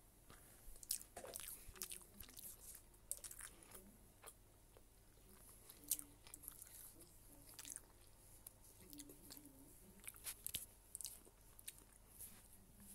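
Faint chewing: irregular soft clicks and smacks of someone eating noodles.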